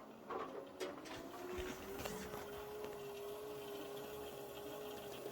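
Indesit 1400-spin washing machine running its rinse program with the covers off: a steady mechanical whine that rises slightly in pitch about two seconds in and then holds level, after a couple of light clicks.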